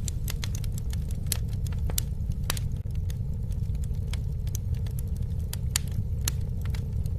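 Campfire burning: a steady low roar of flame with sharp crackles and pops coming irregularly, a few a second.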